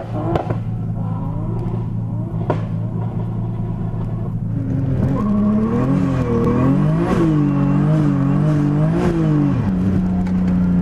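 BMW E30's engine and exhaust heard from inside the cabin while driving: a steady cruising note, then from about halfway the engine speed rises and falls several times with the throttle before settling to a steady note near the end.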